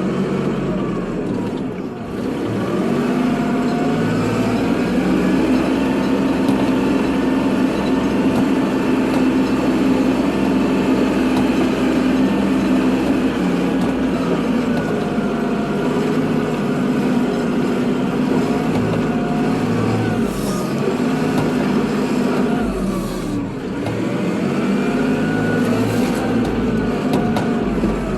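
Kubota tractor's diesel engine running steadily while plowing snow. The engine speed sags and recovers about two seconds in and again near the end.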